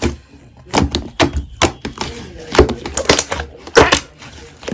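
Slime being squeezed and poked by hand, giving irregular sharp clicking and crackling pops, several a second.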